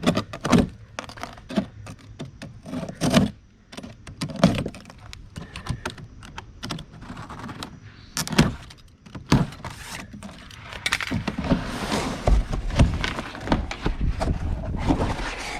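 A new steel skid plate and its hardware being handled and unpacked: irregular metal clinks and knocks, then a longer stretch of scraping and rustling near the end.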